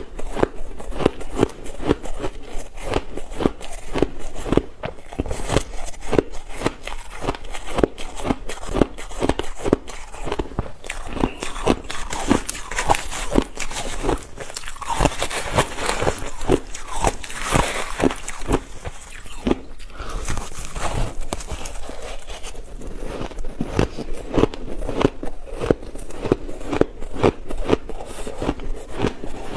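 A person biting and chewing ice: quick, steady crunches, several a second, with a stretch of fine hissy crackling about halfway through.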